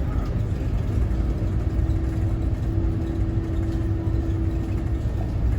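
Scania Citywide city bus running: a steady low engine rumble, with a held whine that starts about half a second in and stops near the end.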